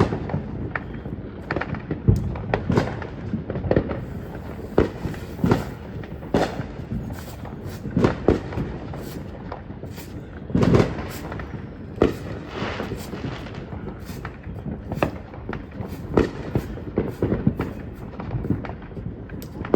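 Consumer fireworks going off: an irregular scatter of sharp bangs and crackles, with a louder burst of bangs about eleven seconds in.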